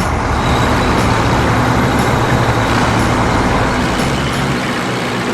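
Vehicle engine sound effect from a cartoon: a steady, loud engine rumble with a low hum and a noisy hiss over it, as of a large truck driving.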